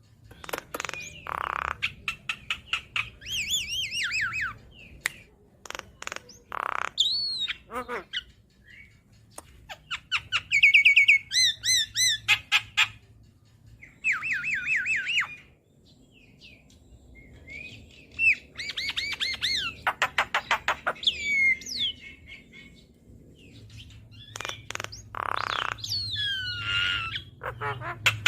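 Javan myna (jalak kebo) singing energetically: a varied run of whistled notes, fast chattering trills and several harsh screeches, in separate phrases with short pauses between them.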